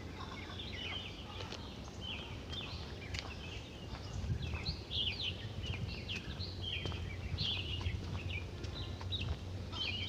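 Wild birds chirping and calling in many quick, short notes, busier from about halfway through, over a steady low background rumble.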